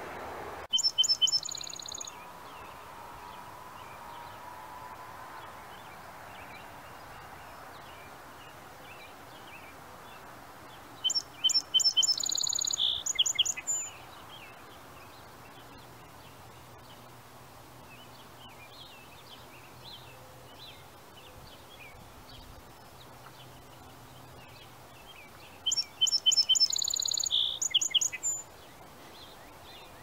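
A songbird singing three times, each song about two to three seconds long: a run of quick repeated high notes followed by a fast, falling trill. Between the songs there is a steady background hum.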